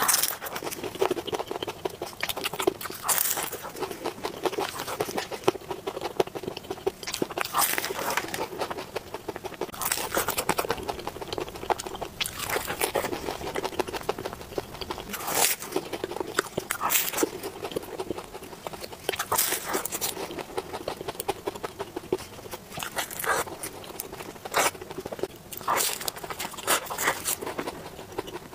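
A person chewing and crunching a crumbly pastry close to a clip-on mic, with irregular crisp crackles and crunches throughout.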